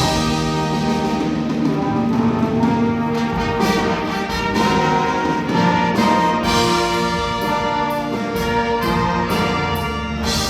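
High school indoor winds ensemble playing live, brass holding sustained chords that shift every second or two, with occasional percussion strokes.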